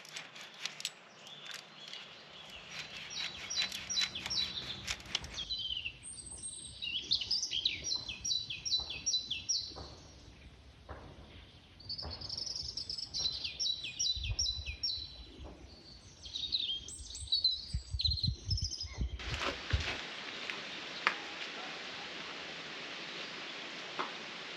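Songbirds singing, with repeated quick trilled phrases of evenly spaced high notes, over scattered clicks and low knocks. About three-quarters of the way through, a steady hiss comes in and stays.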